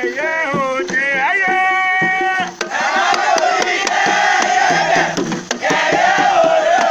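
A single voice sings a short line that ends on a long held note. About two and a half seconds in, a chorus of many voices comes in loudly, chanting together over sharp percussion strokes.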